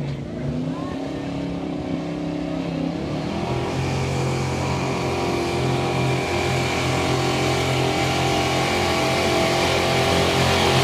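Chevy street-stock pulling truck's engine under full load, revs climbing about three seconds in and then held high and steady, growing steadily louder.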